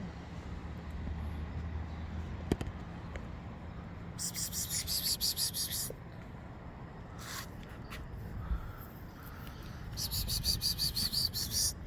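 A person calling cats with rapid "pspsps" hissing sounds, in two runs of about two seconds each: one about four seconds in and one near the end.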